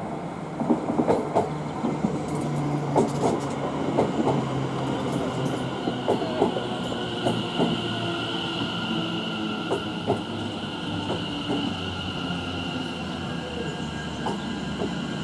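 A pair of Class 720 electric multiple units pulls into the platform, its wheels clicking over the rail joints and points. From about halfway through, a steady high-pitched whine joins in as the train slows.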